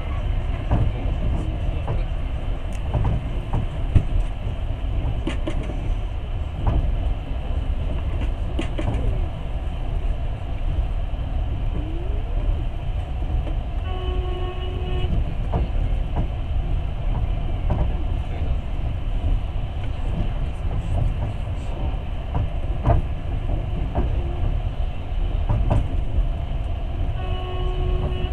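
Passenger train running along the track, heard at a carriage window: a steady low rumble with scattered clicks and knocks from the wheels and rails. Two short steady horn tones, each about a second long, sound around the middle and again near the end.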